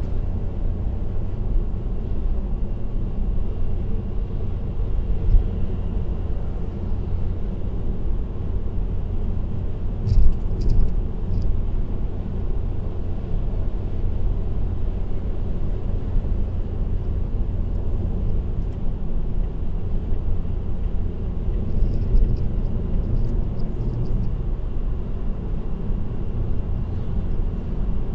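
Steady low rumble of a car's tyres and road noise at expressway speed. A short cluster of sharp clicks comes about ten seconds in, and fainter ones near the three-quarter mark.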